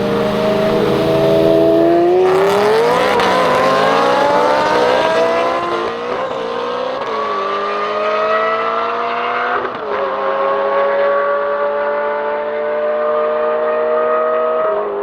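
Car engine accelerating hard through the gears: the engine note climbs steadily and drops back at each upshift, several times.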